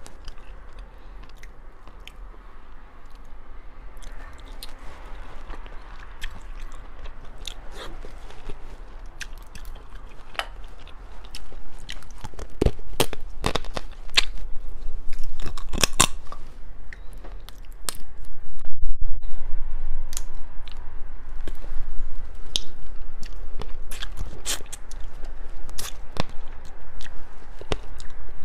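Close-miked eating of shell-on spicy sea lobster: shell cracking and crunching with chewing. The crunches get louder and come more often from about halfway through.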